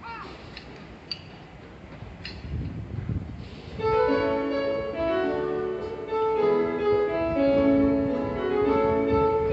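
Railway platform departure melody: an electronic, chime-like tune of held notes that starts about four seconds in, over a low rumble and a few clicks of the station before it.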